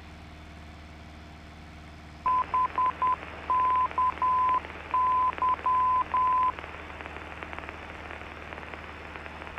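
Morse identifier of the Barkway VOR, 'BKY' (-... -.- -.--), keyed as a steady 1 kHz tone. It comes through the aircraft's navigation radio with radio hiss behind it, over the steady drone of the cabin. The hiss and ident start about two seconds in, and the ident stops a little past the middle. The ident confirms the receiver is tuned to the Barkway beacon.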